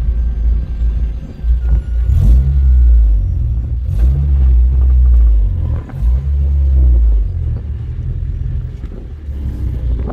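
Car engines and exhausts rumbling low at idle and low speed, swelling and easing in stretches, with a few sharp clicks.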